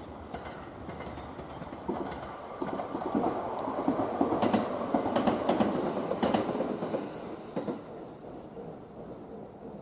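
Shinano Railway's Karuizawa Resort passenger train passing through a station without stopping. It grows louder over a few seconds, the wheels clatter over the rail joints as it goes by, and then it fades away.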